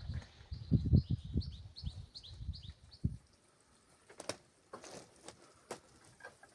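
A small songbird singing a fast trill of repeated chirps that step down in pitch and stop about two seconds in. Low thumps and rumbles sound under it until about three seconds in, then a few faint clicks.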